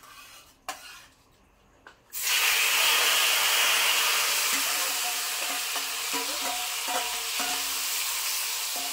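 Marinated chicken thigh pieces dropped into a hot wok: after a few light metal knocks, a loud sizzle starts suddenly about two seconds in and carries on steadily as the meat fries. In the second half a metal spatula clinks and scrapes against the wok as the pieces are stirred.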